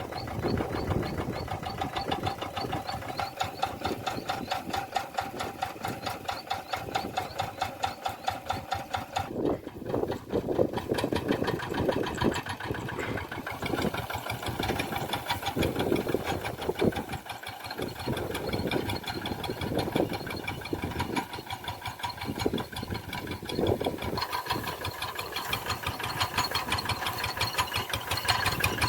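Tractor engine running steadily with a fast, even beat of firing strokes, dipping briefly about a third of the way in.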